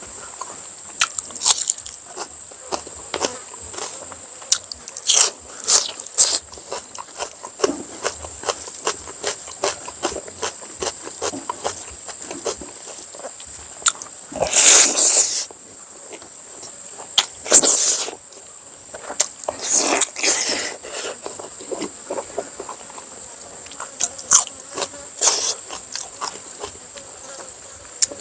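Close-up eating sounds: chewing and mouth noises with many small clicks and a few louder smacking bursts. A steady high-pitched insect drone runs underneath.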